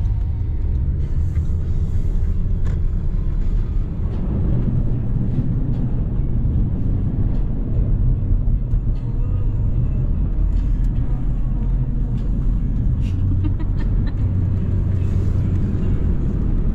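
Car driving on the road, a steady low rumble of engine and road noise.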